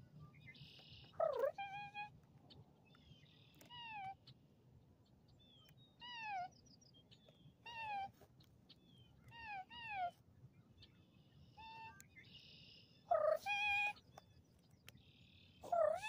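Birds calling over and over: short, falling, mewing calls about every one and a half to two seconds, mixed with harsher buzzy notes. The loudest calls come about a second in and near the end.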